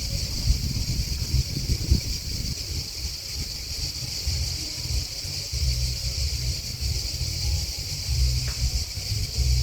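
Grasshoppers and crickets chirping in a continuous high-pitched chorus that stays level throughout, over an uneven low rumble.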